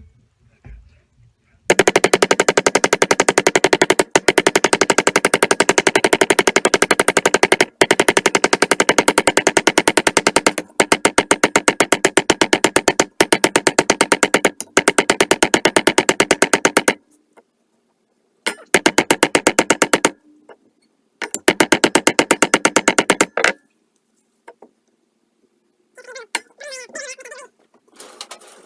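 Rapid hammer blows on a thin sheet-metal panel being bent to shape, many strikes a second in long runs that pause briefly and start again, with two shorter runs near the end.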